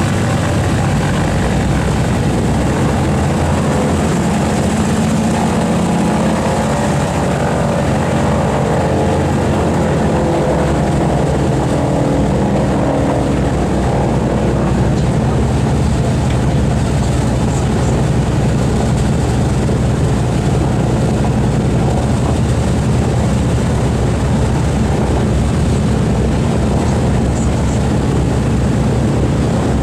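Boeing B-29 Superfortress's four Wright R-3350 radial piston engines and propellers running with a loud, steady low drone. The pitch wavers slightly in the first half.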